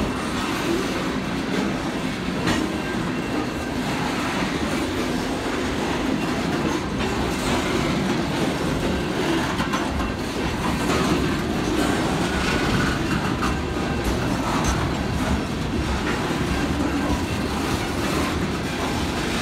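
Coal cars of a freight train rolling past close by: a steady rumble of steel wheels on rail, with scattered wheel clicks over the rail joints.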